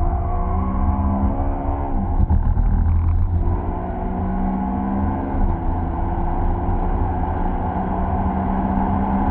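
BMW M3 CRT's 4.4-litre V8, heard from inside the cabin, accelerating hard under full load: the pitch climbs, drops with an upshift about two seconds in, climbs again and drops with a second upshift about five and a half seconds in, then pulls on at a steadier pitch.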